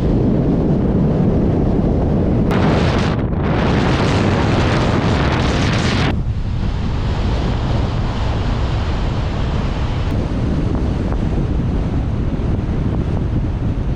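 Wind buffeting a GoPro Hero 8's microphone held out of a moving car's sunroof at about 50–60 km/h: a loud, steady rumble. A brighter, hissier stretch runs from about 2.5 to 6 seconds and stops abruptly.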